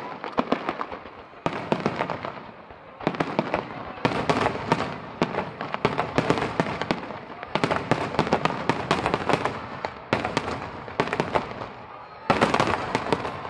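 Aerial fireworks shells bursting in a rapid barrage, a dense run of bangs and crackles that surges afresh several times. The last surge, near the end, is the loudest.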